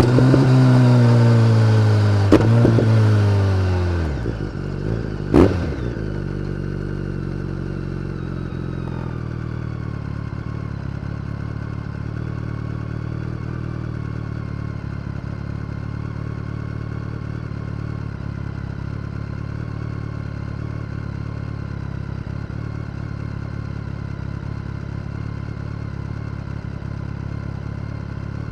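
BMW K1300R inline-four through an Akrapovic exhaust, its revs falling away over about four seconds with two sharp pops along the way. It then settles into a steady idle.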